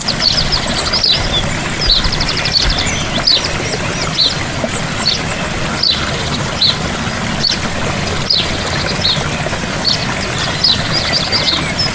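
Steady rush of a gentle waterfall, with small birds chirping over it: short downward-sweeping calls and quick trills, repeated every second or so.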